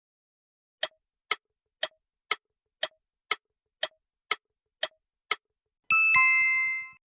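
Countdown timer sound effect: ten even clock-like ticks, two a second, then a two-note chime, the second note lower, rings out near the end as the time runs out.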